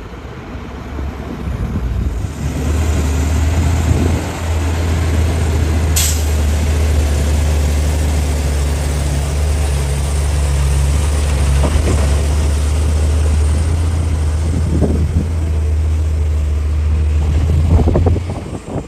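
Hitachi excavator's diesel engine revving up over the first couple of seconds and then running hard under load, steady and loud, before easing off near the end. A single short sharp click about six seconds in.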